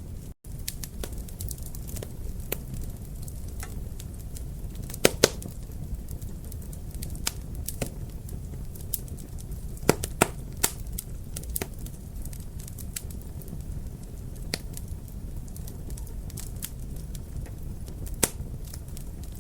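Wood fire crackling, with frequent sharp pops over a steady low rumble; the loudest pops come in pairs about 5 and 10 seconds in and once more near the end. The sound cuts out for an instant about half a second in.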